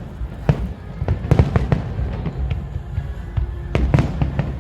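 Aerial fireworks bursting in a rapid, irregular run of sharp bangs and crackles over a continuous low rumble, with music playing underneath.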